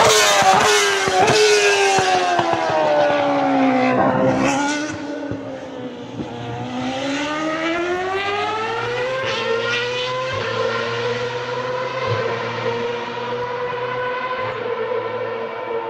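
A Ferrari racing car's high-revving engine. Its pitch falls for the first four seconds as it slows, then climbs again from about six seconds and holds a high, fairly steady note to the end.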